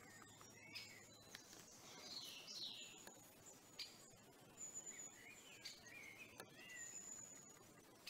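Faint wild bird calls: thin high whistles, short chirps and brief glides from several birds, with a few sharp clicks.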